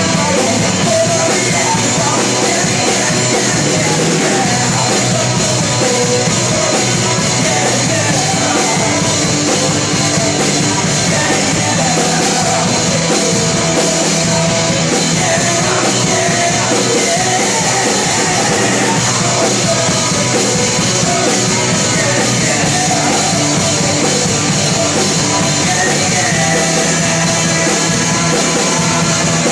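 Loud rock song played by a band, dense and steady throughout.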